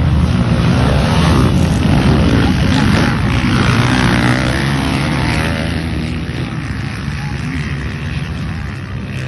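Motocross dirt bike engines running and revving, easing off somewhat in the second half.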